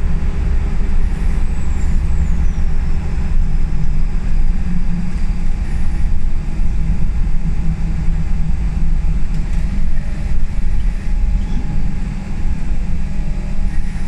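Scania L94UB single-deck bus under way, heard from inside the saloon: a steady low rumble of its diesel engine and road noise. A faint high whistle glides down in pitch about two seconds in.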